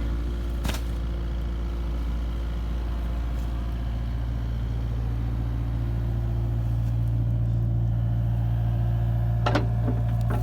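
Kubota KX057-4 mini excavator's diesel engine running steadily at low RPM, working a little harder about halfway through. There is a short knock about a second in and a few sharp knocks near the end.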